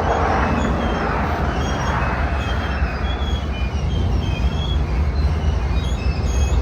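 Train running on the rails: a steady low rumble with short, high squeals from the wheels on the track coming and going.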